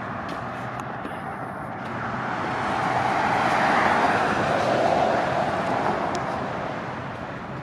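A vehicle driving past on the road: its noise swells, peaks about four seconds in, then fades away.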